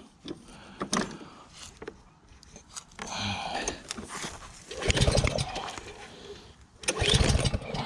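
Small gasoline engine of a pressure washer being pull-started three times, each pull turning it over briefly without it catching: there is no fuel in it.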